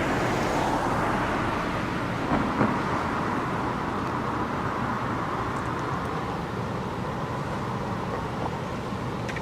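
Traffic on the bridge: a vehicle's steady tyre and road noise that swells and slowly fades, with two brief knocks a little over two seconds in.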